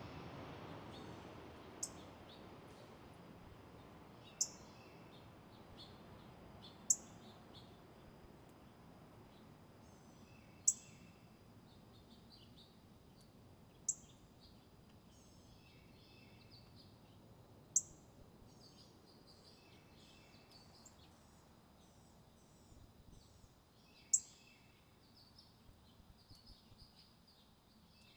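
Small birds calling: a short, sharp high chirp repeats every few seconds, with softer, lower chirps in between, over a faint steady hiss.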